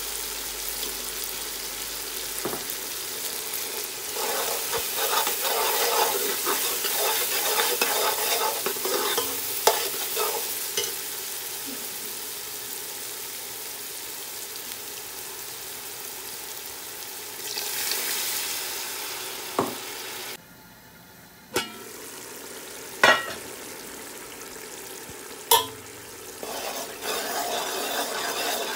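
Curry masala of onion and tomato sizzling in oil in a steel pot while a spoon stirs it. The stirring scrapes through the sizzle, and the spoon knocks sharply against the pot several times in the second half.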